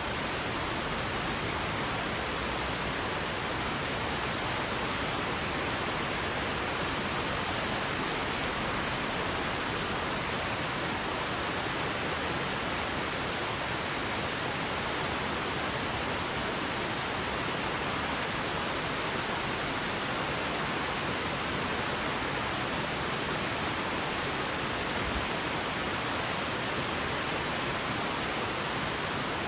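Heavy summer rain falling in a steady, even hiss.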